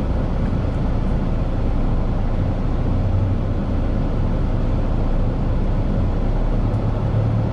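Steady engine and road rumble heard from inside a tow truck's cab as it drives slowly.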